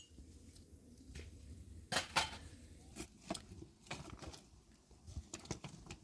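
Irregular clicks and knocks, like small objects being handled, with the loudest pair about two seconds in, over a faint low steady hum.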